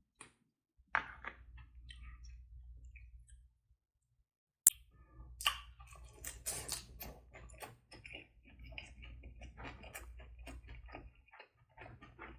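Close-miked eating sounds: chewing with a rapid run of small wet clicks and ticks. A single sharp click about four and a half seconds in is the loudest sound.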